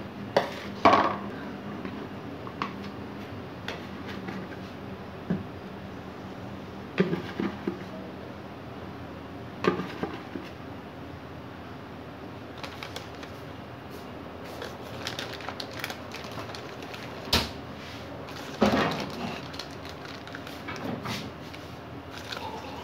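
Scattered knocks and short clatters of kitchen dishes and utensils being handled, over a steady low background hum.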